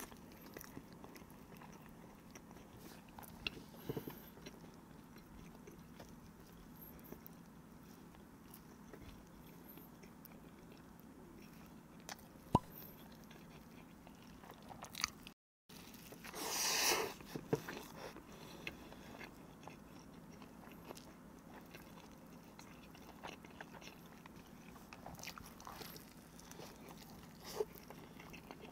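A person chewing and biting into a toast sandwich close to the microphone: soft wet mouth sounds and small clicks, with one louder bite or crunch about seventeen seconds in.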